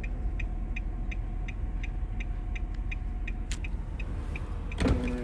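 Hazard warning flasher clicking steadily in the cabin of a 2020 Nissan Maxima, about three ticks a second, over the low hum of its 3.5-litre V6 idling.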